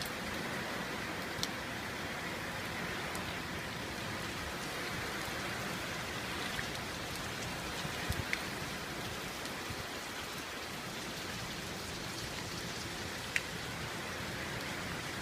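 Steady, heavy rain pouring down, with a few sharp drip-like ticks standing out now and then.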